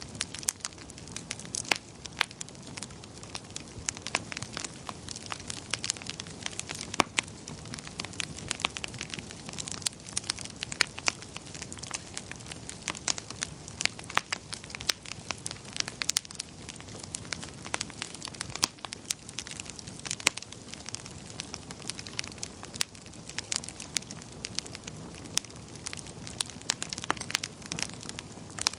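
Wood fire burning in a fireplace, with dense, irregular crackles and pops over a low, steady rush of flame.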